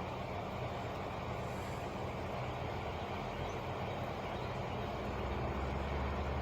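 Truck engine idling steadily, a low even hum, its lowest notes swelling slightly near the end.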